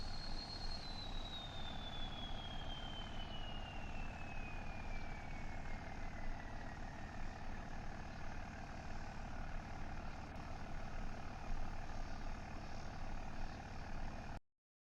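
Truck engine idling steadily, with a thin high whine that slowly falls in pitch over the first several seconds. The sound cuts off abruptly near the end.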